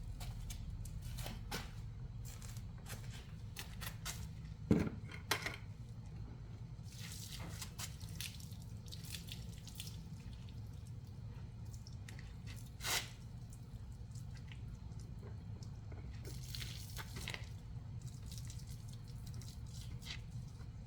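Water spattering and dripping in short irregular splashes over a steady low hum, with a sharp knock about five seconds in and another near thirteen seconds.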